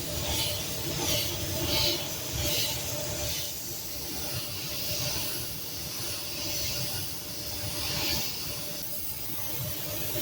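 Compressed-air hissing from a body-shop air tool, surging in repeated bursts during the first few seconds and again near the end, over a steady machine hum.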